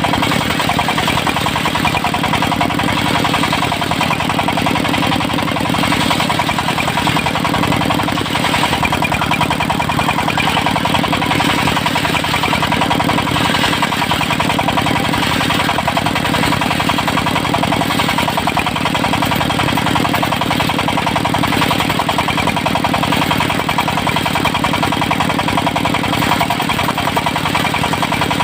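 Engine of a portable circular sawmill running steadily at an even speed, with a fast, regular firing pulse and a faint steady whine above it.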